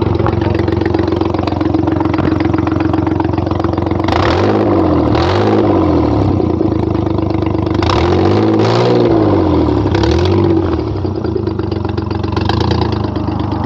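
Maruti Suzuki Alto 800's three-cylinder petrol engine idling through its exhaust, revved in short blips about four times. The silencer is faulty and makes a bad sound, and it is being recorded for repair.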